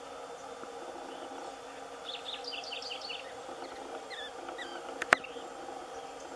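Small bird calling: a quick run of short, high chirps about two seconds in, then a few brief falling notes, over a steady low hum. A single sharp click about five seconds in.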